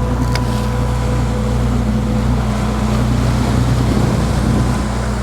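Fishing boat's engine running steadily, a constant low drone with the rush of wind and water over it.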